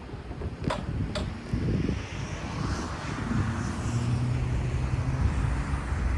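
Diesel engine of an EMD GP40M-2 locomotive running as the slow train moves past, a low steady drone that swells after the first couple of seconds. Two sharp clanks sound about a second in.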